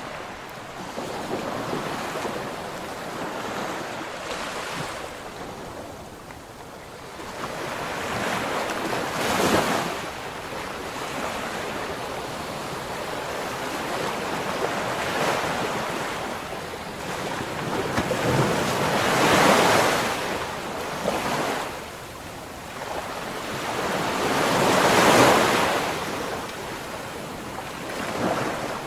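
Ocean waves surging and breaking on the shore. A continuous rush swells into three louder crashes spaced several seconds apart.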